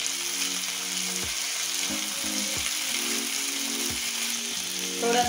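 Chopped onions and tomatoes sizzling in hot oil in a nonstick pan while a silicone spatula stirs them, with soft background music underneath.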